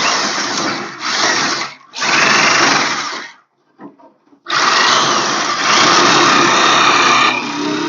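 Electric sheet-metal shear cutting rocker-panel sheet steel in start-stop runs. There are three short runs in the first three seconds, a brief pause, then a longer run of about three seconds.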